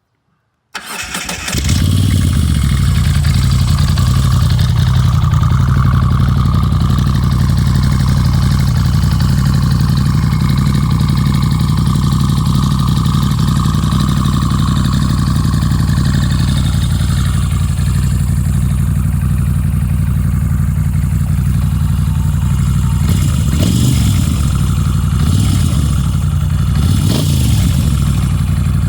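2017 Moto Guzzi V9 Roamer's air-cooled V-twin cranks and catches on a cold start about a second in, then idles steadily through short Mistral mufflers with the baffles out. Twice near the end the engine speed briefly rises and falls.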